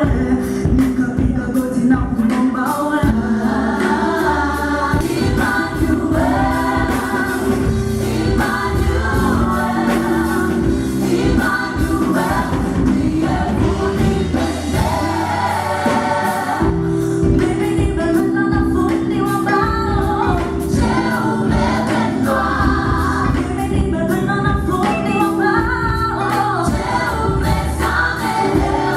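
A contemporary gospel band playing a worship song, with several voices singing together over keyboard, bass and drums.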